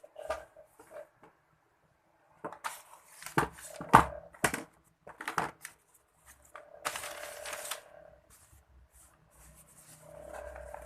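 Handling noises: a quick run of sharp clicks and knocks, then about a second of hissing rustle, with a faint hum near the end.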